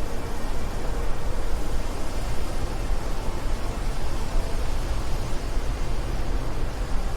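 Wind blowing steadily, a deep low rumble under an even rushing hiss, fluttering slightly in strength.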